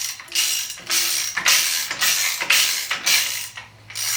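Hand ratchet wrench clicking in repeated back-and-forth strokes, about two a second, loosening the bolts holding an engine's oil pump.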